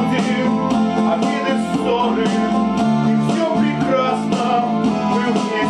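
Instrumental passage of a song: strummed guitar with a steady beat and sustained backing chords.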